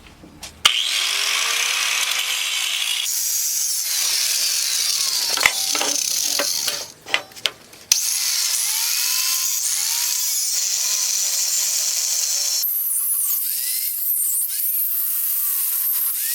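A power tool cutting through a steel truck coil spring, with a loud steady grinding noise whose pitch bends as the cut loads it. It starts about a second in, pauses briefly about halfway and then resumes.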